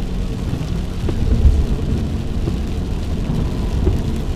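Car cabin noise while driving through a thunderstorm: a steady low rumble of the car on the road with rain on the body, and a few faint ticks.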